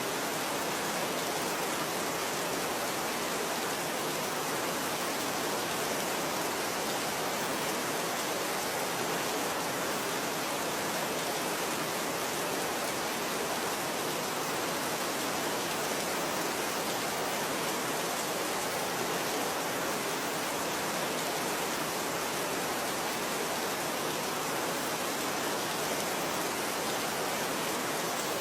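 Steady rain falling, a dense, even hiss with no single drops or thunder standing out.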